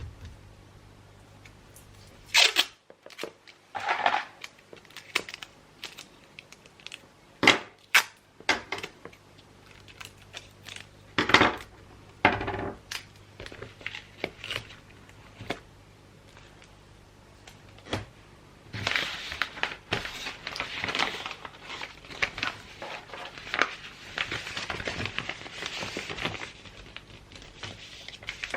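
Wrapping paper being handled: a scattering of sharp crackles and rips, then a long stretch of continuous crinkling and rustling from about two-thirds of the way in.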